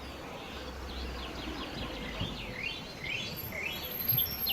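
Small birds chirping and twittering: quick rising and falling notes, getting busier near the end.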